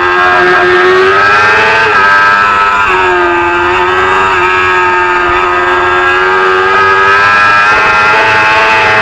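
SSP3-class race motorcycle engine running hard at high revs, its pitch climbing and then dropping sharply as it shifts up, about two seconds in and again about a second later, then holding steady.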